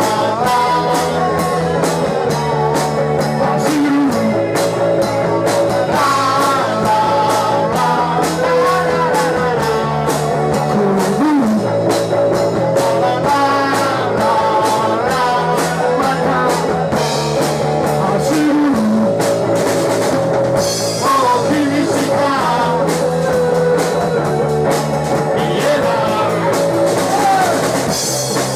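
Rock band playing live: a drum kit keeping a steady beat, electric guitar and a singing voice.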